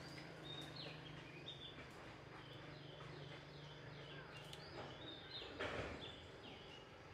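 Faint bird calls: a run of short high chirps, each falling in pitch, about two a second, over a steady low hum. A brief burst of rustling noise comes near the end.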